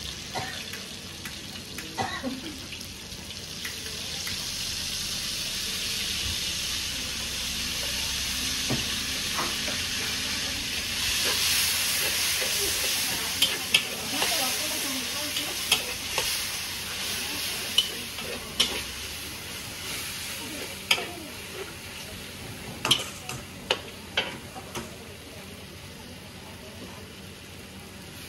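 Pad thai frying in a hot pan: a sizzle that builds up, is loudest about halfway through and then dies down, with a spatula repeatedly clacking and scraping against the pan as the food is stirred.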